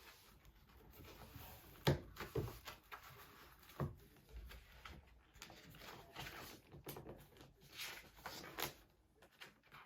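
Small handling sounds: a few light knocks, the loudest about two seconds in, then soft rustling and scraping.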